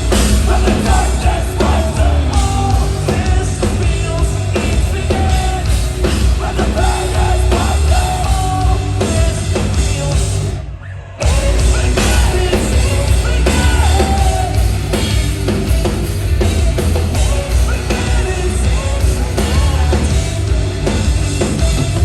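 Post-hardcore band playing live and loud: heavy drums and bass, distorted guitars and yelled vocals. About halfway through the band stops for an instant, then crashes back in.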